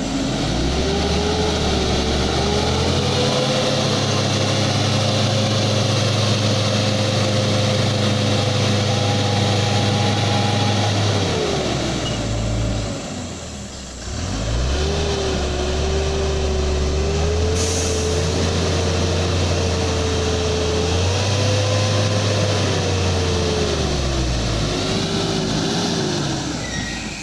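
Vehicle engine running hard under load: it builds up and holds steady, drops away about twelve seconds in, then picks up and pulls steadily again before easing off near the end.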